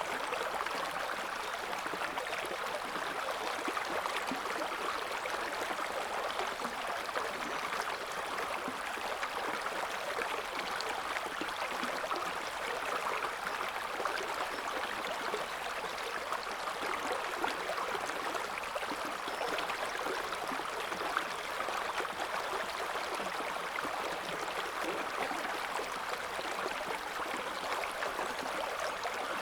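River water flowing and splashing over stones: a steady babbling rush with fine gurgles and trickles.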